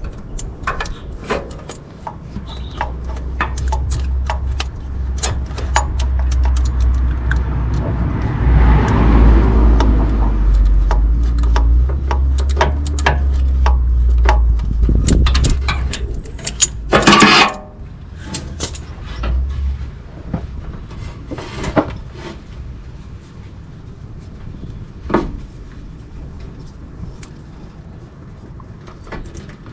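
Band-type oil filter wrench and hands working a spin-on oil filter loose: scattered metallic clicks and knocks, over a low rumble through the first half, with one louder burst of noise a little past the middle.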